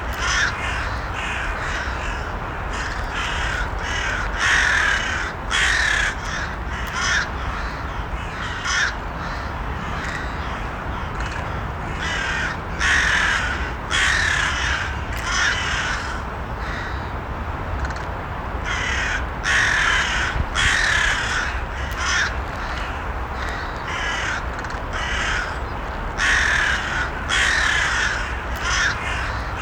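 Crows cawing over and over, short calls often in quick groups of two or three, coming every second or two over a steady background noise.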